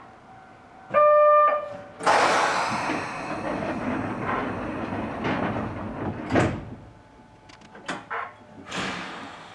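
Narrow-gauge electric train at a station: a short steady tone of about half a second, then a loud rushing noise that fades over several seconds, with a sharp thud about six seconds in and a few clicks near the end.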